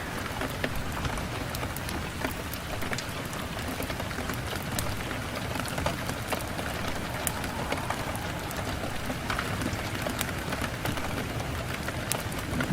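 Steady rain pattering on a window, a continuous hiss with many scattered sharp drop taps.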